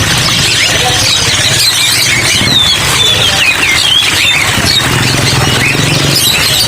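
Many small caged songbirds chirping and whistling over one another in short rising and falling calls, over a steady hiss and a low hum.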